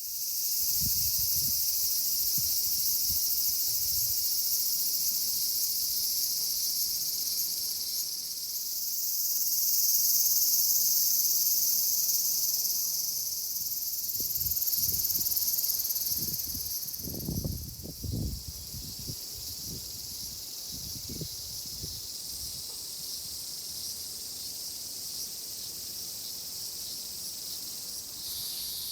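Steady high-pitched chorus of insects, swelling louder around a third of the way in and again around halfway. A few low thuds and rumbles come in the middle.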